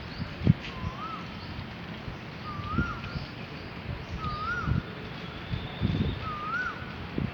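Asian koel calling: a rising whistled note that dips at its end, repeated four times at an even pace of about one call every two seconds. Scattered low thumps sound underneath the calls.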